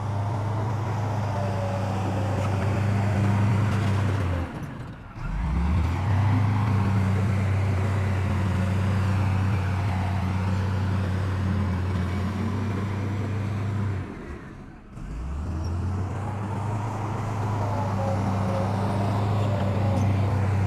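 Heavy diesel engine of earthmoving machinery running with a steady low drone. It breaks off briefly twice, about five and fifteen seconds in, and picks up again each time.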